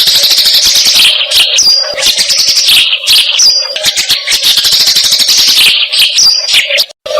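Dense, rapid chattering trill from a looped masteran song-training recording of bird and insect calls, with a short whistled note recurring every second or two. The sound cuts out briefly near the end.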